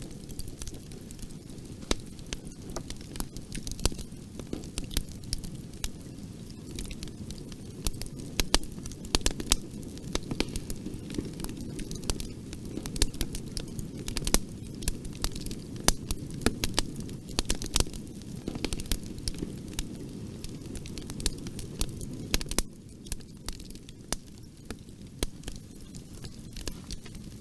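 Wood fire crackling in a fireplace: a steady low hiss of flames with many sharp pops and snaps, a little quieter near the end.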